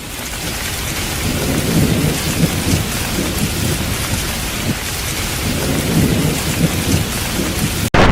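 Blizzard wind blowing hard over the microphone, a dense steady rush with a heavy low rumble. It fades in at the start and cuts off suddenly near the end.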